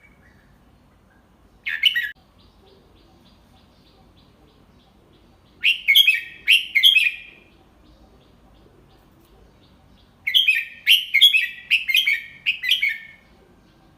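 Red-whiskered bulbul singing: a short call about two seconds in, a three-note phrase in the middle, and a longer run of quick notes near the end.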